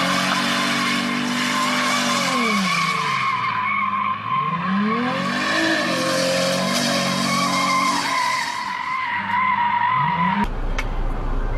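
Car tyres squealing in a long, steady screech while the engine's revs fall and rise several times. The sound cuts off abruptly near the end.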